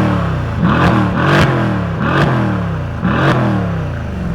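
Mercedes-AMG C63 S's twin-turbo V8 revved hard with the sports exhaust open: a series of quick throttle blips, each rising and falling in pitch, about one a second.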